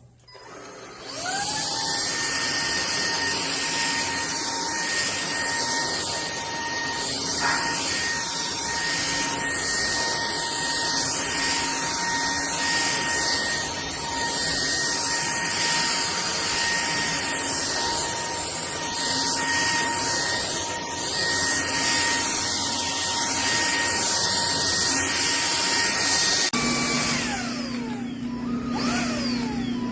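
JELLYPIG cordless stick vacuum starting up about a second in, its motor whine rising and then holding steady over the rush of air. Near the end it changes speed, with the whine sliding down and back up several times.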